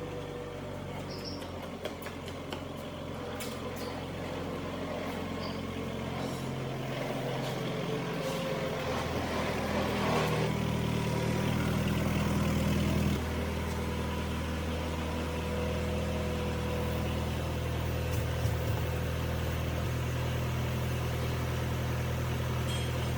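An engine running steadily, its low hum stepping to a different pitch twice, about a third of the way in and again about halfway through, with a few faint clicks near the start.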